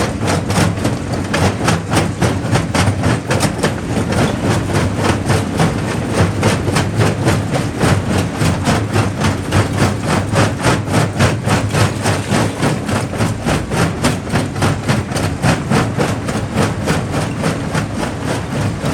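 Jaw crusher running under load, rock clattering and cracking between the jaws over a deep machine rumble, with a steady rapid rhythm of knocks.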